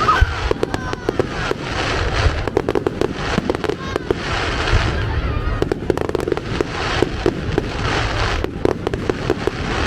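Fireworks going off in a dense string of bangs and crackles, with a brief whistle near the start.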